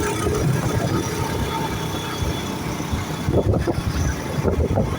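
Motorcycle engine running under way, its exhaust made louder by a silencer that is no longer good.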